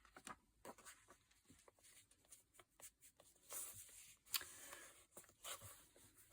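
Faint handling of paper at a craft table: small taps and crinkles, with a couple of longer brushing or scraping strokes about halfway through as paper is pressed and stuck down.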